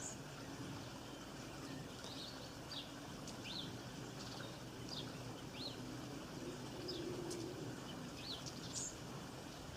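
Small birds chirping in short, sharp calls, about one a second, over a steady hiss of light rain.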